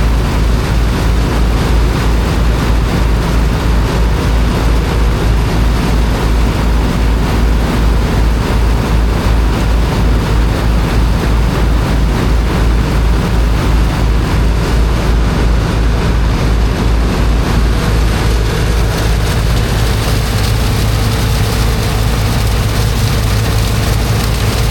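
Heavy engine of a high-pressure sand-unloading water pump running steadily with a fast low throb, under a steady hiss of rushing water. About nineteen seconds in, a steadier hum comes up in its note.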